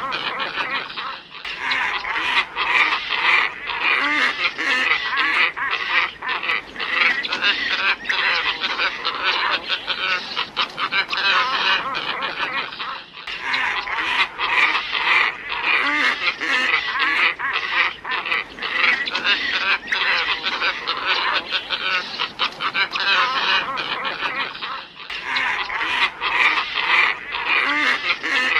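Glossy ibis flock calling: a dense, continuous chorus of overlapping calls played as a bird lure. The recording loops, briefly dipping and restarting about every twelve seconds.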